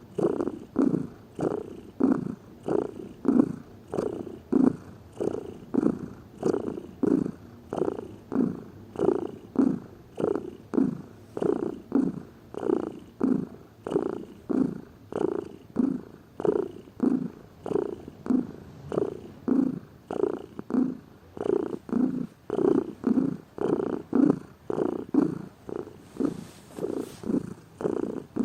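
Domestic cat purring close up, a steady rhythmic purr that swells and fades with each breath in and out.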